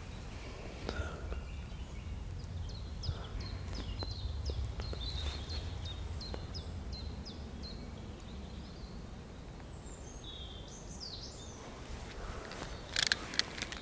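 A songbird singing: a quick run of short, falling high notes, a few each second, starting about three seconds in, with a few more calls around ten seconds, over a steady low rumble. A few sharp scratchy clicks near the end.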